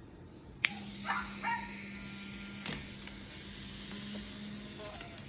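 A click as something switches on, then a steady low electric buzz with hiss, and two short high yips over it about a second in.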